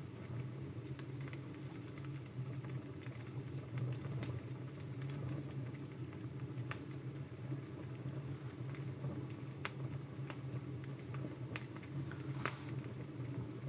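Wood fire crackling: a steady low rush with scattered sharp pops and snaps, the loudest ones about halfway through and near the end.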